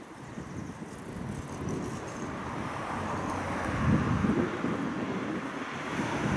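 Class 425 electric multiple unit rolling across a long river bridge: a steady, distant rumble of wheels on rails. Wind gusts on the microphone about four seconds in.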